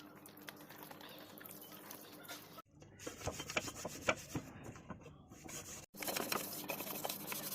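Workshop hand work: scattered light clicks, taps and scraping, broken by two abrupt cuts about two and a half and six seconds in.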